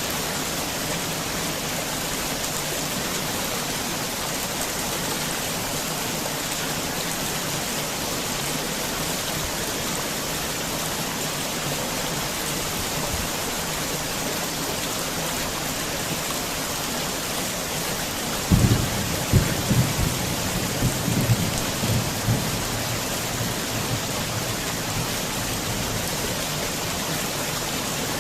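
Heavy rain falling steadily as a dense hiss. About two-thirds of the way in, a cluster of low rumbling thumps lasts a few seconds.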